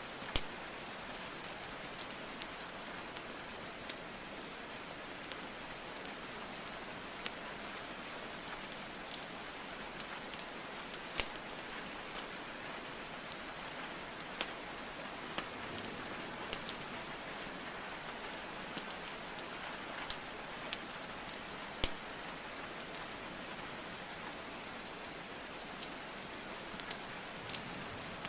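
Steady rainfall with the irregular sharp pops and crackles of burning wood logs in a fireplace scattered over it.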